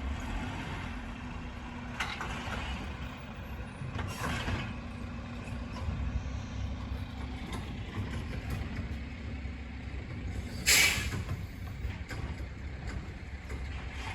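Garbage truck running with a steady low rumble, with a hum that fades out about halfway and a loud, short hiss of air about eleven seconds in.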